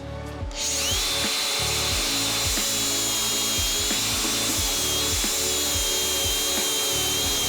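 Cordless angle grinder switching on about half a second in and grinding steadily on metal and body filler, with a high whine that rises as it spins up and then holds. Background music with a beat plays underneath.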